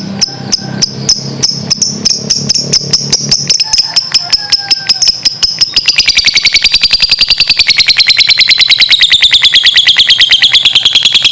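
Lovebird's long 'ngekek' song: a steady run of quick, high chirps that speeds up about halfway through into a fast, unbroken chattering trill whose pitch wavers. A low hum underneath stops about a third of the way in.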